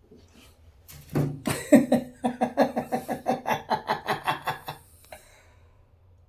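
A man laughing hard in a long run of rapid, pitched 'ha' bursts, about five a second, starting about a second in and dying away after nearly four seconds.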